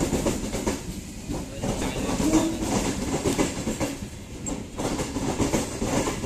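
Panvel–Vasai MEMU electric train's coaches rolling along the platform, the wheels clattering steadily over the rail joints.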